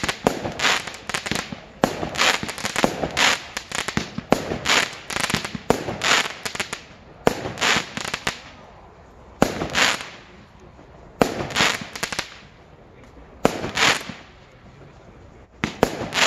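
Fireworks display, aerial shells launching and bursting. There is a rapid run of bangs and crackles over the first seven seconds, then single sharp bangs about every two seconds.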